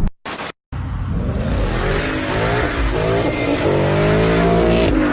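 A car on the road: engine note rising and falling over steady road and tyre noise, after a brief drop to silence near the start where the clip cuts.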